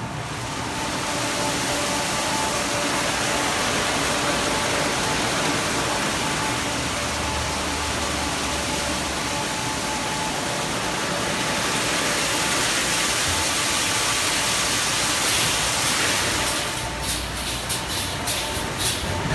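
Christ automatic car wash machine running: a steady rush of spraying water over a faint machine hum. Near the end it changes to a rapid, irregular clatter.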